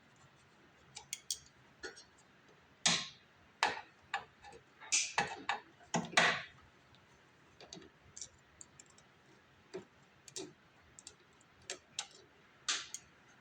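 Irregular small clicks, clinks and short scrapes of hands handling and fitting fuel-line hose clamps and fittings on a snowblower carburetor, with a cluster of louder knocks in the middle and another near the end.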